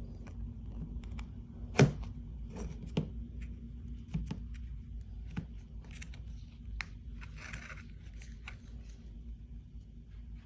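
Scattered light clicks and knocks over a steady low hum, with a sharp knock about two seconds in, another about a second later, and a short rustle near the end.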